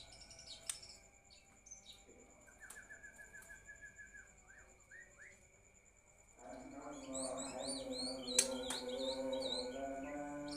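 Small songbirds chirping: a run of short rising notes in the first half, then quicker high twittering. About six and a half seconds in, low held musical tones come in under the birds.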